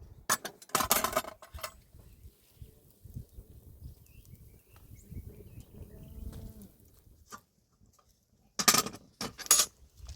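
Livestock bleating in a few short calls, about a second in and again near the end.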